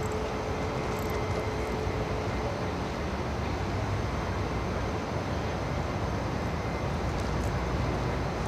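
Freight train of auto-rack cars rolling slowly past: a steady rumble of wheels on rail, with a faint steady whine for the first two seconds or so.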